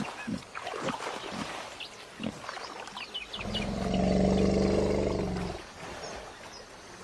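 A series of short, low animal sounds, then about three and a half seconds in a long, deep-pitched animal call lasting about two seconds.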